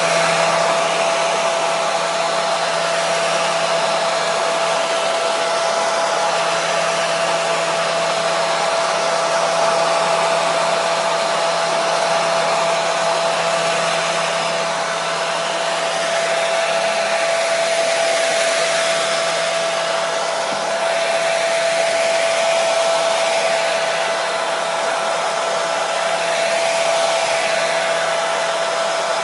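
Hair dryer running continuously: a steady blowing hiss with a constant motor whine.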